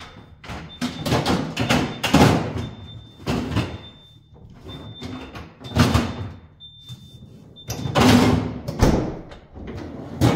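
A plastic freezer drawer being handled and worked back onto its track: a rapid run of knocks, scrapes and clatters, loudest near the middle and about eight seconds in. A faint, thin high tone comes and goes behind it.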